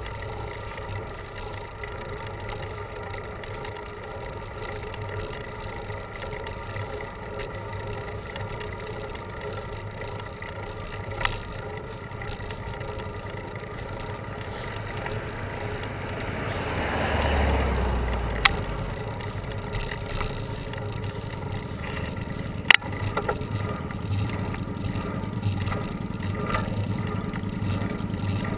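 Steady road and wind noise of a bicycle ride on a paved road, with a motor vehicle swelling past about two-thirds of the way through and a few sharp clicks.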